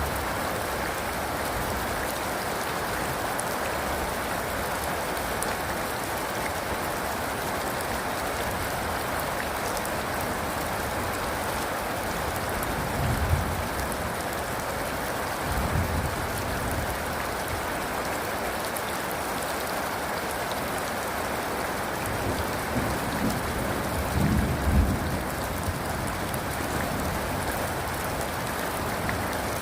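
Steady, even rainfall, with a few short low rumbles of thunder about halfway through and again near the end.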